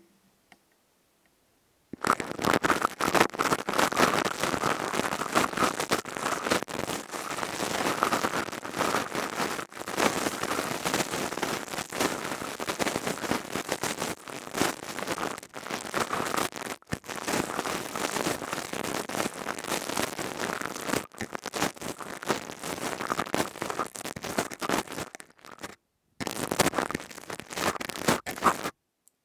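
Crystal tube handled right against an ASMR microphone, making dense crackling and scraping that starts about two seconds in, breaks off briefly near the end and then stops.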